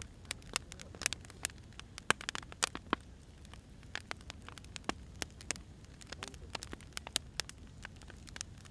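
Firewood burning, with many irregular sharp crackles and pops over a low steady rumble.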